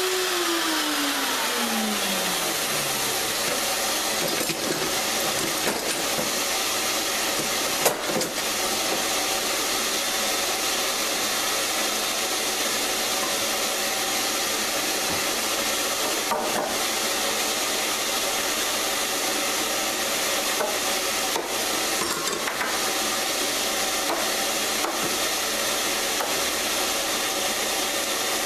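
Router motor winding down after being switched off, its whine falling over about three seconds, over a steady hissing rush that runs on throughout. There are a few clicks and knocks, and near the end the router starts up again with a rising whine.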